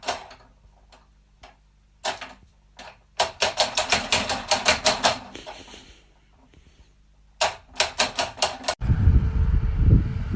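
Runs of rapid sharp clicks, about eight a second, then about nine seconds in a sudden switch to a low rumbling noise.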